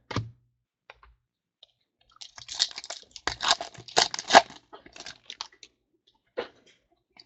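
Crinkling and tearing of a foil trading-card pack wrapper: a dense crackly burst lasting about three seconds from a couple of seconds in, with a few separate clicks before and after.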